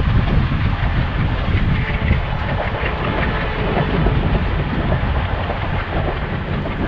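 A passing passenger train's coaches rolling by, steel wheels clattering on the rails in a steady, continuous rush.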